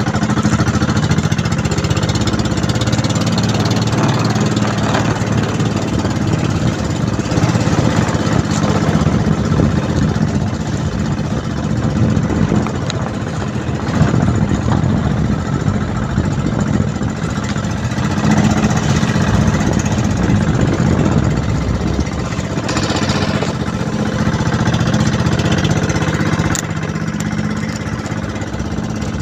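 Small fishing boat's engine running steadily at trolling speed, with wind and water noise over it.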